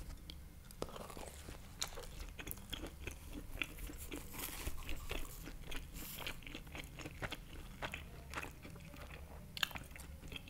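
A baked empanada being bitten and chewed close to a microphone, its crust crunching in many sharp crackles.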